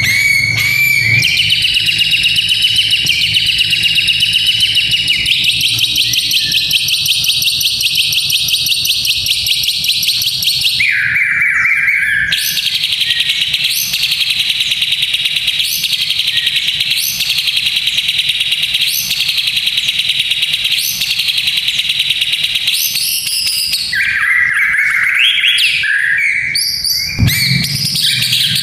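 White-rumped shama (murai batu) song: long, very fast rattling trills held for many seconds without a break. Twice they give way to shorter, lower, varied whistled phrases. These rattles are the kretekan used to build up a young fighter shama's nerve.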